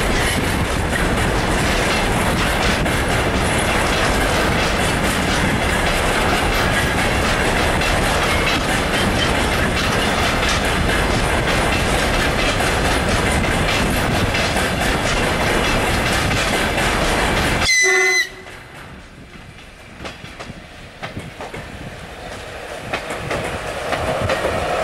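Container freight train passing close by, its wheels clattering over the rail joints. About 18 seconds in the noise stops abruptly, just as a short train horn blast sounds. An ER9E electric multiple unit then grows louder as it approaches.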